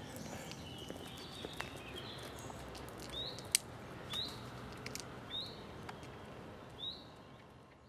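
A bird singing outdoors: first a run of warbling chirps, then a short up-sweeping note repeated about once a second. A few faint sharp clicks sound along with it, and the sound fades away at the end.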